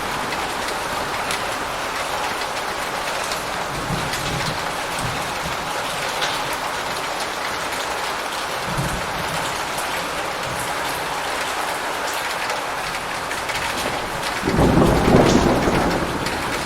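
Steady rain with low rolls of thunder, the loudest a rumble lasting about a second and a half near the end.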